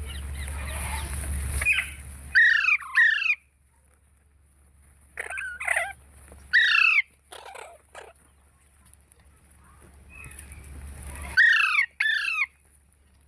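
Parrot calling: a string of short, loud squawks that slide down in pitch, several coming in quick pairs, with quieter gaps between them.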